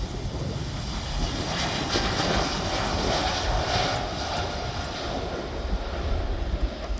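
Jet airliner's engines at takeoff thrust, a broad rushing noise that swells about a second and a half in, holds for a few seconds, then eases off. A low rumble runs underneath.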